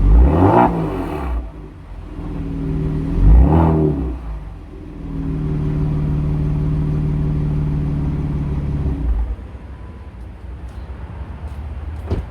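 Kia Stinger GT2's 3.3-litre twin-turbo V6 breathing through an aftermarket Borla exhaust, revved sharply twice in short blips and settling back to idle each time. The engine note stops about nine seconds in.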